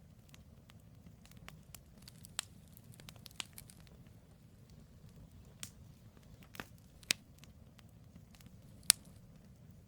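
Wood campfire burning: scattered sharp crackles and pops from the firewood over a low steady rumble, the loudest pop near the end.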